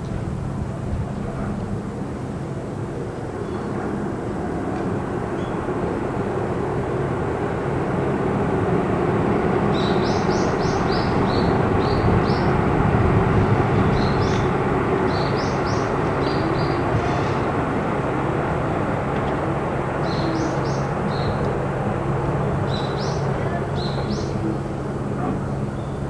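A steady engine-like rumble with a low hum, swelling to its loudest around the middle. Over it, a small bird chirps in quick runs of short high notes, four times in the second half.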